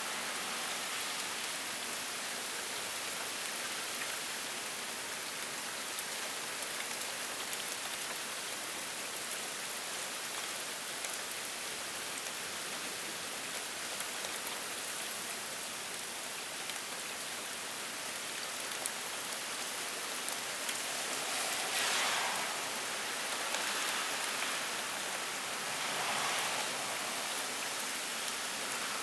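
Heavy rain pouring down in a steady hiss, with scattered drops ticking, during a cold-front downpour. The rush swells louder twice in the last third.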